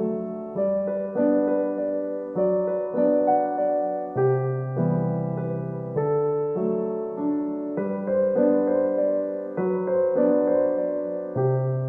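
Background music: a gentle piano or electric piano piece, with notes and chords struck about every half second to a second.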